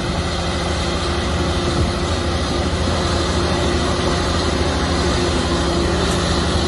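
Heavy diesel earthmoving machinery running steadily under load, a deep engine drone with a dense mechanical rattle over it.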